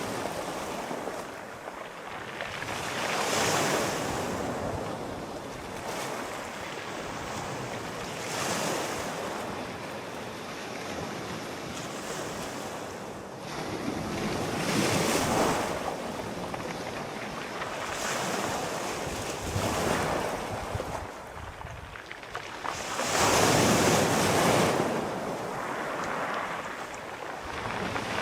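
Sea waves breaking and washing ashore in uneven surges every few seconds, the biggest about five seconds before the end, with wind noise underneath.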